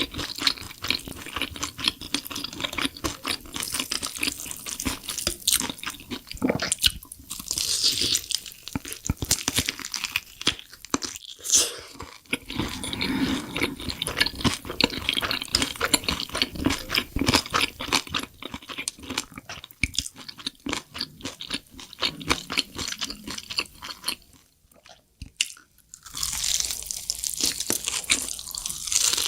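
Close-up crunching and chewing of crisp snack food in the mouth, many irregular crackling bites and chews, stopping briefly near the end before starting again.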